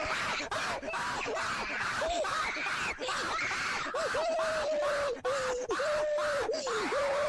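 A person's voice doing a mock cat call: a long, harsh screech held at one pitch that keeps dipping sharply and coming back up.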